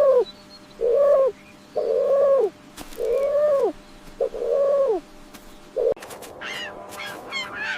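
A bird calls six times, about once a second, each call a held note that drops in pitch at the end. Higher, chirping calls start near the end.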